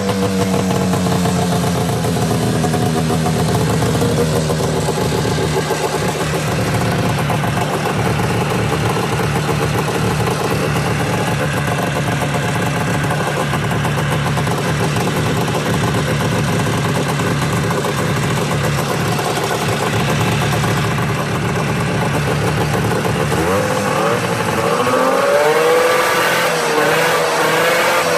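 Snowmobile engine running steadily, then revved up and down several times in the last few seconds.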